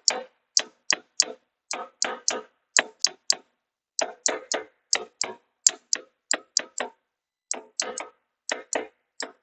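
Hammer lightly tapping a forklift wheel hub into place on its keyed axle: a run of sharp taps, about three a second, with two short pauses.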